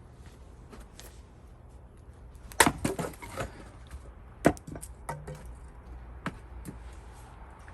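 Gränsfors Bruk axe splitting cherry-wood rounds: a sharp strike about two and a half seconds in with the wood cracking apart right after it, a second sharp strike about two seconds later, then a few lighter knocks.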